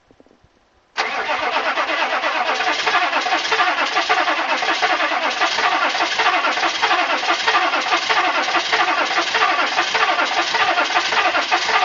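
Starter motor cranking the cold 6.5 L V8 diesel of a 1994 GMC 1500, starting suddenly about a second in and turning over steadily and rhythmically without the engine catching. This is a hard cold start at about -15 °C with no block heater, after six months of sitting.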